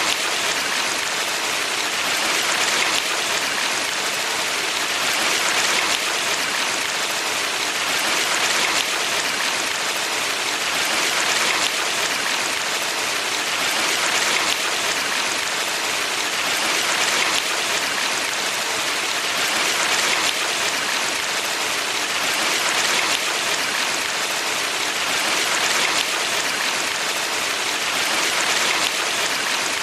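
Valley stream water flowing, a steady rushing hiss that swells and eases gently every few seconds.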